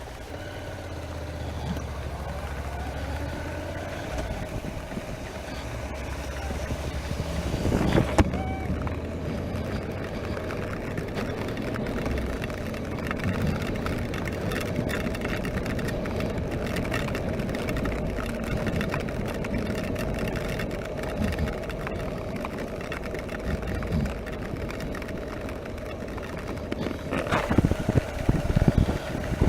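Honda NC700X parallel-twin motorcycle engine running while riding on wet roads, under wind and road noise. The sound grows louder over the first several seconds, with a brief louder rush about eight seconds in and again near the end.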